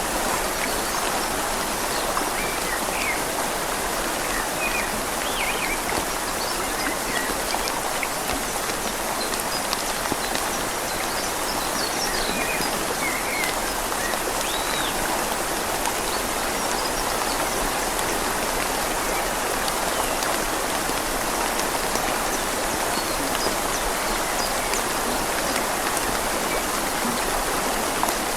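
Steady rain falling on leaves mixed with a flowing river, an even, unbroken hiss.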